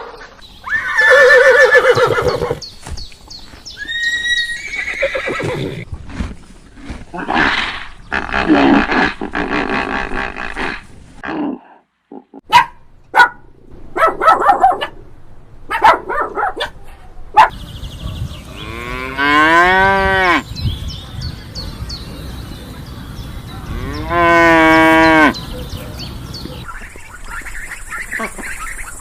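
A string of short farm-animal calls cut one after another, among them cows mooing. The longest calls, each drawn out for about a second, come past the middle.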